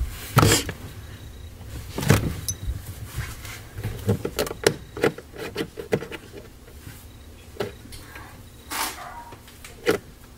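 Scattered knocks, clicks and rustles close to the microphone, the sound of the camera being handled and moved about. The loudest knocks come about half a second in and about two seconds in, with a quick run of clicks in the middle and a rustle near the end.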